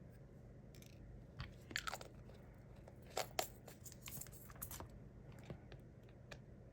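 Small resin diamond-painting drills rattling and clicking against plastic as they are handled. There is a short crisp rattle about a second and a half in, then a longer spell of rattling and sharp clicks from about three to five seconds in.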